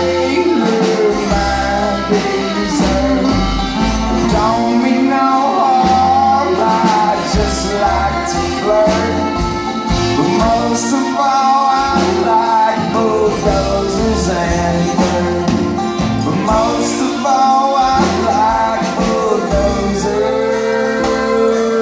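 A string band playing an instrumental passage live in a country-bluegrass style, with a wavering lead melody over a pulsing bass line.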